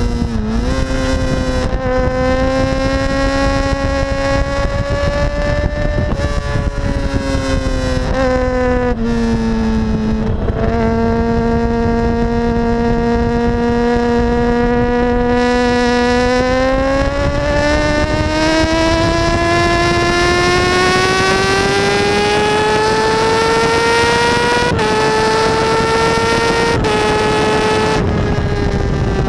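Kawasaki ZX-6R inline-four engine ridden hard on track, its note rising and falling with throttle and gear changes: a long climb through the middle, two quick upshifts near the end, then easing off. Steady wind rush runs underneath.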